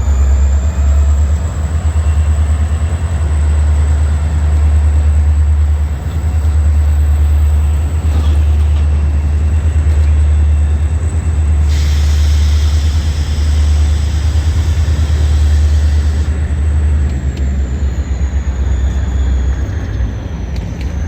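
Freight train running by with a loud, steady low rumble, a thin high whine, and a hiss of air lasting about four seconds past the middle.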